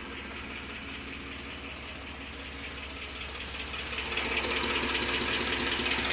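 2010 Ford F-150's 4.6 L three-valve V8 idling steadily with a fast ticking, clicking noise that the owner cannot yet explain. The sound grows louder about four seconds in.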